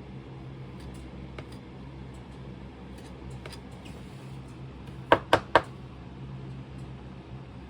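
Faint scratching and light clicks of a hand tool working a sand casting mold, over a steady low hum. A little past the middle come three quick, sharp taps.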